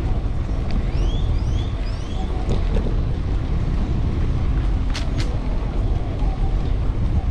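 Wind buffeting the microphone of a camera on a moving bicycle, a steady low rumble. A series of short rising chirps sounds in the first two seconds, and two sharp clicks come close together about five seconds in.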